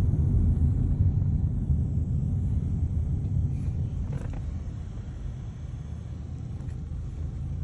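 Steady low rumble of a vehicle driving on the road, easing off and growing quieter over the second half.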